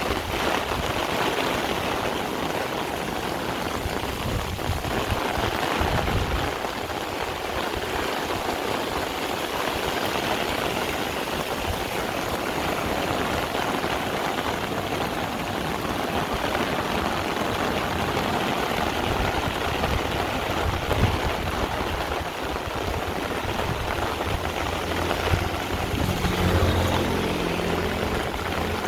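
Heavy rain pouring steadily, with a low rumble about a quarter of the way in and a low humming rumble near the end.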